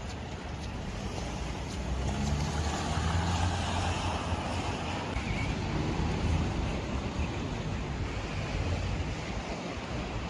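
Wet city street in the rain: a vehicle drives past, its engine and tyre hiss on the wet road swelling for a few seconds and then fading, over a steady wash of rain noise.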